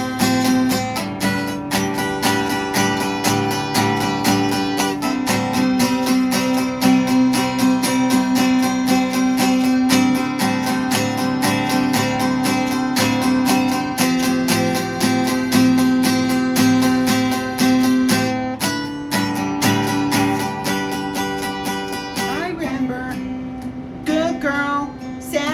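Acoustic guitar strummed in a steady, even rhythm, playing the instrumental intro to a song.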